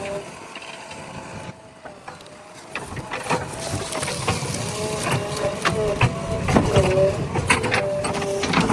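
JCB backhoe loader's diesel engine working, its pitch rising and falling with the hydraulic load, over repeated knocks and clanks from the bucket working soil and stones. It dips quieter about two seconds in, then picks up again.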